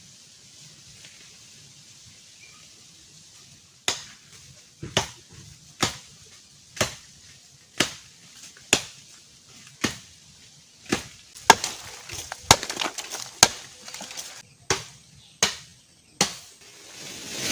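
A blade chopping bamboo: sharp strikes start about four seconds in, about one a second, come quicker for a stretch past the middle, then spread out again. Faint steady background noise of the stream bank sits under the strikes.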